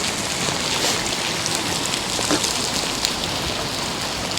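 Heavy rain falling steadily, with sharper drop hits standing out now and then.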